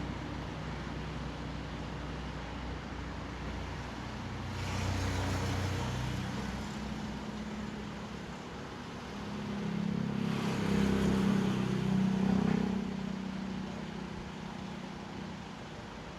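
Road traffic: motor vehicles passing one after another over a steady low engine sound, one about four seconds in and a louder one from about ten to thirteen seconds in, each swelling and fading away.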